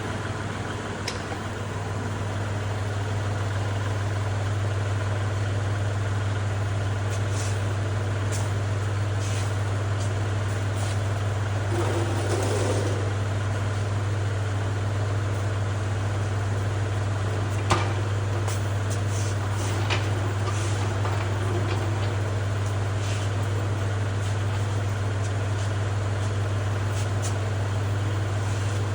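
Kubota tractor engine running steadily with a constant low drone that grows a little louder in the first few seconds. A couple of short metallic clicks come about two-thirds of the way through.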